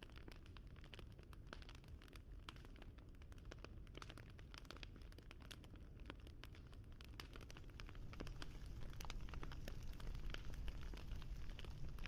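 Wood fire crackling: irregular quick pops and snaps over a low rumble, getting louder about eight seconds in.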